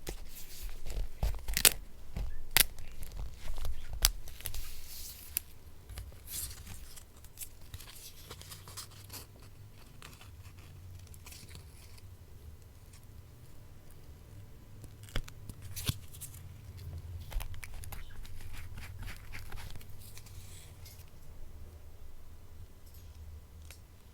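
Paper being handled by hand for a collage: rustling and tearing with sharp clicks and taps. It is busiest in the first several seconds, with another short flurry about fifteen seconds in and quieter handling between.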